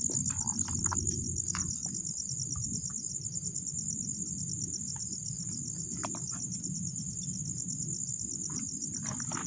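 Crickets trilling in a steady, high-pitched night chorus, with low rustling and scuffing underneath.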